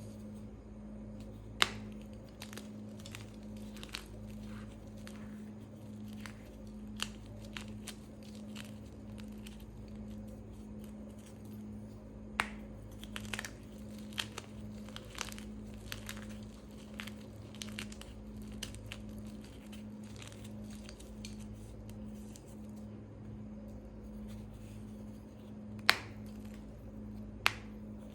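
Gritty gym chalk being crushed: a scatter of small crunches and crackles, with a few sharp, louder snaps as pieces break, over a steady low hum.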